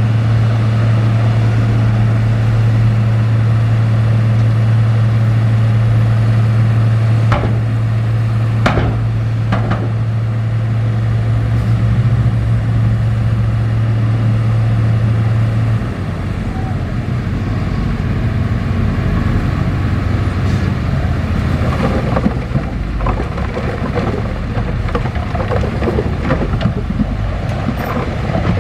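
Heavy diesel earthmoving machinery running, a steady low engine drone through the first half with a few sharp knocks about 7 to 9 seconds in. About halfway the steady note drops away into a rougher rumble with scattered clanks of metal and rock.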